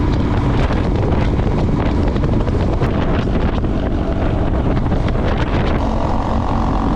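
Yamaha MT-03 motorcycle underway: wind rushing over the microphone with the engine's steady drone beneath. Frequent short knocks and rattles come through from the rough road surface.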